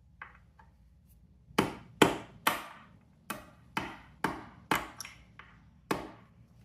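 A series of about ten sharp knocks, roughly two a second, from hand-tool work on a dirt bike's kickstand assembly.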